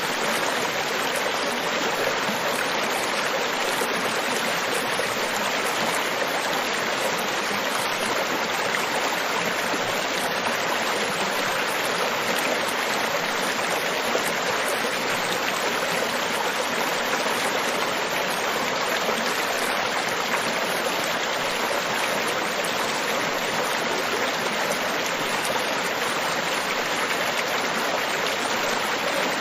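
Steady rushing water, an even hiss with no rise and fall.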